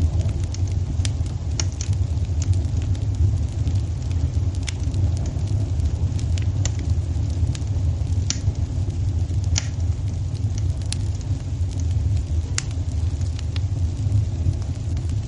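Wood fire in a fireplace crackling: a steady low rumble with irregular sharp pops and snaps.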